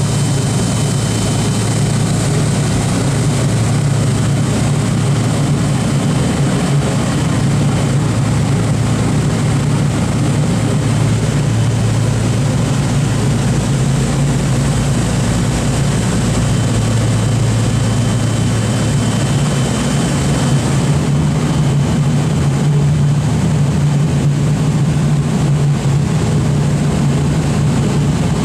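Propeller aircraft's radial engines running steadily at close range, a loud low drone with a deep pulsing hum; the B-29 Superfortress's Wright R-3350 engines. The high hiss eases slightly about three-quarters of the way through.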